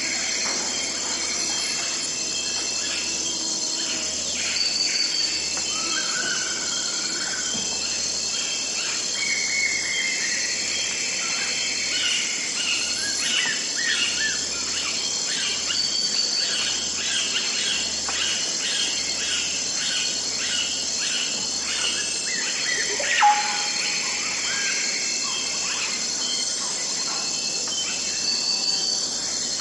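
Forest ambience: a steady chorus of insects with many birds chirping and whistling over it, and one louder call a little past the middle.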